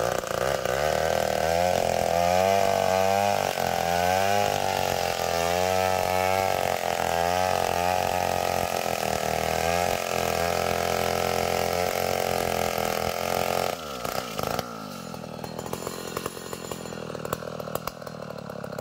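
Chainsaw cutting a Bornean ironwood (ulin) log, its engine pitch wavering under load. About 14 seconds in, the engine drops back and runs quieter at idle.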